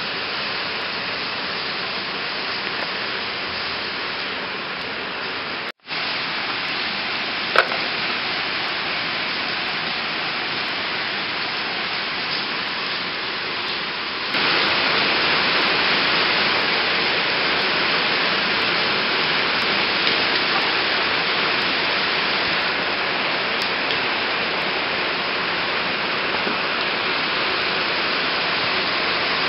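Steady hiss of rain falling, which gets louder about halfway through, with a momentary break about six seconds in. A short high squeak sounds once a couple of seconds after the break.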